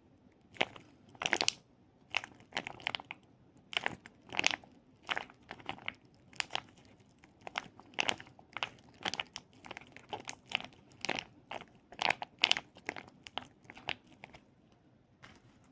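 Close-miked crunchy, crackly sounds from an ASMR toy being handled, in irregular bursts about one to two a second.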